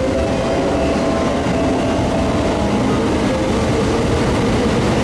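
Electric train at the station, a steady rumbling running noise with faint humming tones over it.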